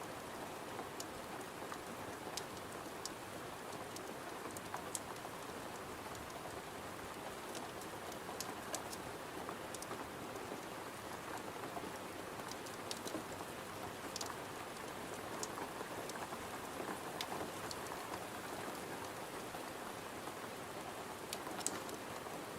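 Steady rain falling on a window, with scattered sharp clicks and crackles over the even hiss.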